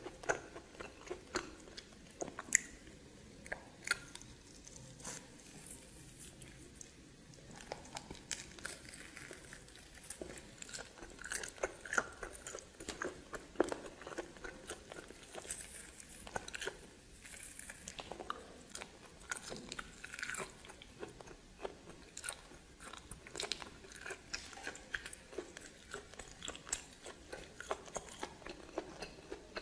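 Close-miked chewing and biting while eating steamed snake: irregular crisp clicks, crunches and mouth smacks.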